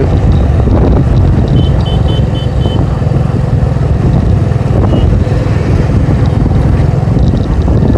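Motorcycle running on the road, with a steady low rumble of engine and wind on the rider's microphone. A run of four short high beeps comes about two seconds in, and a single beep about five seconds in.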